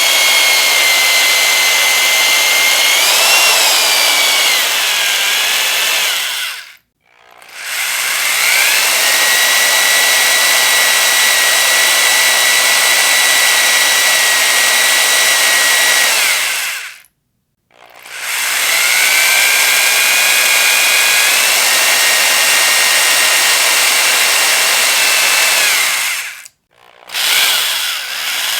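Electric power drill running in three long bursts of about eight to ten seconds, with a steady high whine. It stops briefly between bursts and starts a fourth near the end. The whine rises as the motor spins up at the start of the runs.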